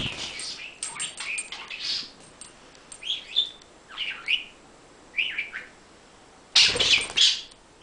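Pet budgerigar chattering: short chirps and warbles with quick clicks, and a louder, rougher burst near the end.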